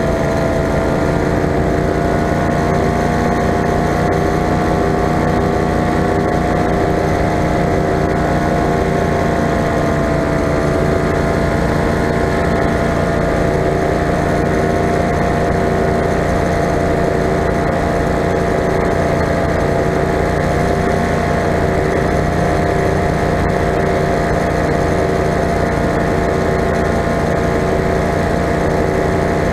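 Four-stroke paramotor engine and propeller of a powered paraglider running steadily in flight: an even drone that holds nearly one pitch.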